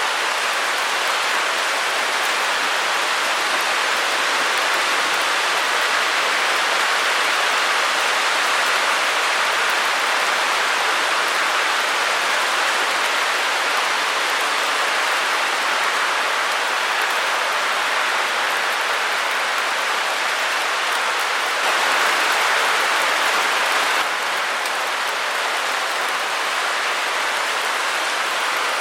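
Steady white-noise hiss centred in the midrange with little bass. It grows slightly louder for about two seconds a little past two-thirds of the way in, then drops back.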